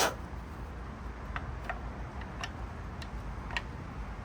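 A sharp metallic click, then a few light, irregular ticks from hand work on a magnetic oil drain plug that keeps sticking as it is threaded into an engine oil pan.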